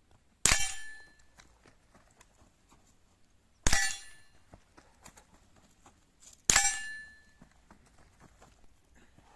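Three single shots from an Umarex Hammerli TAC R1 .22 LR carbine, about three seconds apart, each with a short metallic ring dying away after it.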